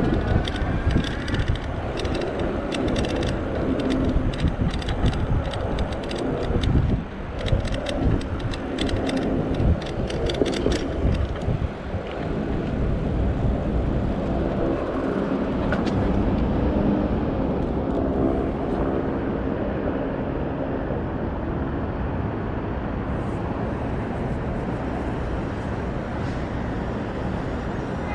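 Street traffic and rushing noise heard from a moving e-bike, with a run of sharp clicks and rattles in the first eleven seconds, then a steadier rumble.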